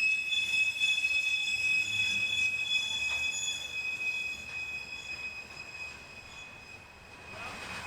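Norfolk Southern freight train's wheels squealing: a steady high-pitched squeal with thinner higher tones over it, slowly fading away.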